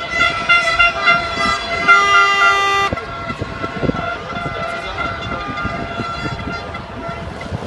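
Horns blowing long steady notes, with one loud blast from about two to three seconds in; after it the notes fade under a noisy background.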